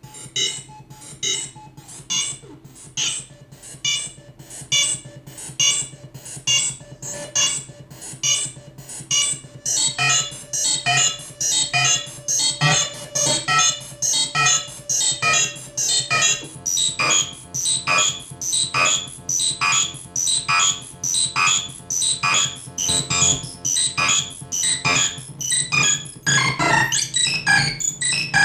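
Modular synthesizer lead patch (FM oscillator through distortion, echo and filter) played by a step sequencer: a steady run of short, bright notes, a few a second, over a sustained low bass note, the pattern growing busier near the end.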